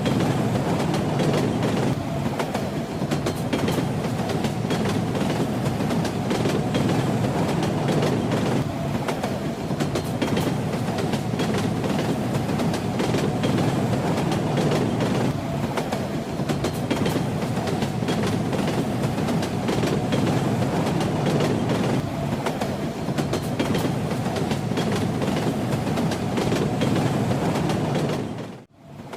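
Train running on rails: a steady rumble with the clatter of wheels over the track. Near the end the sound drops out briefly, then picks up again.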